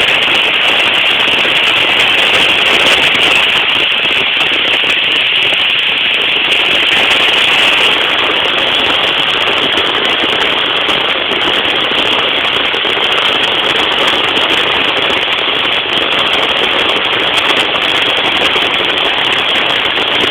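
Heavy rain falling steadily: a dense, continuous hiss with a fine crackle of many drops.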